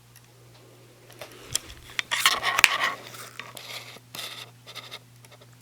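Wooden toy trains being handled, with clicks and a short burst of clattering and clinking about two seconds in, then scattered clicks.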